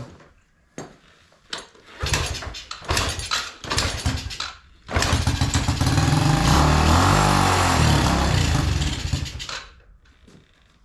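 Yamaha TTR90E's small four-stroke single-cylinder engine being cranked with the choke on, coughing in several choppy bursts before it catches about five seconds in. It runs for about four and a half seconds with the revs rising and falling, then dies away.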